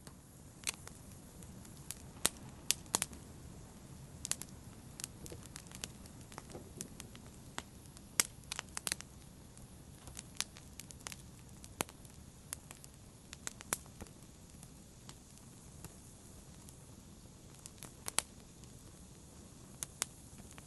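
Wood fire in a fireplace crackling: irregular sharp pops and snaps, sometimes in quick clusters, over a low steady hiss and rumble of burning.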